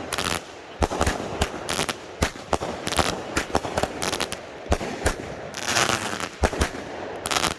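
Consumer fireworks cakes firing: a rapid, irregular string of sharp reports and crackling shots, several a second, with a denser cluster of bursts near the end.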